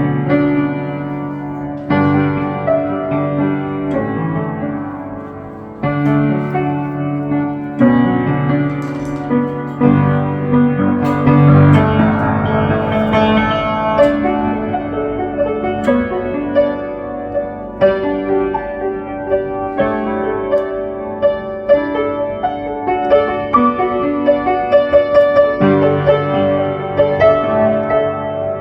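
Piano music: slow chords struck about every two seconds, each left to ring, with quicker repeated notes near the end.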